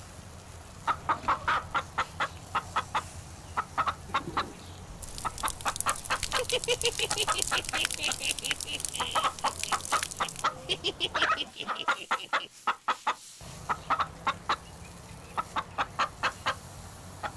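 Chicken clucking in quick runs of short repeated clucks, with a denser, noisier flurry in the middle.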